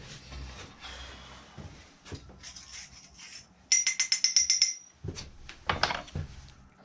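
Hand work on a sand casting mold: rubbing and handling noise, then a quick run of about ten sharp, ringing taps lasting about a second, followed by scraping and rubbing.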